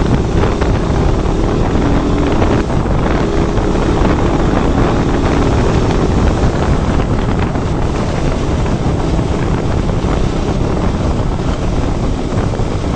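Wind buffeting the microphone over the running engine of a KTM RC 200 single-cylinder motorcycle being ridden.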